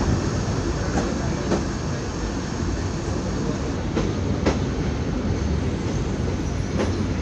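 Jamalpur Express passenger train running steadily, its rumble broken by paired clicks of the wheels passing over rail joints, three times.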